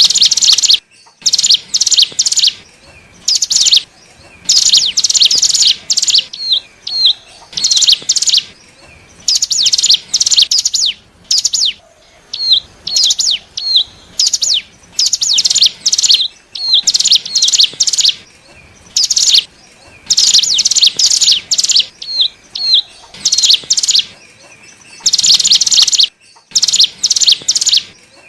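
Ciblek gunung (cigun), a mountain prinia, singing a lure song: loud, repeated bursts of rapid high chirps, each about a second long, with short pauses and a few quick slurred notes between them.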